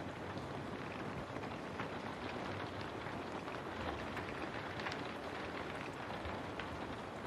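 Steady rain on a window, a constant hiss with individual drops striking at irregular moments.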